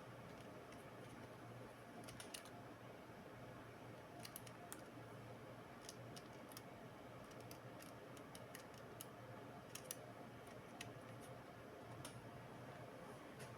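Faint, irregular light clicks and ticks from small laptop parts and tools being handled, over a steady low hum.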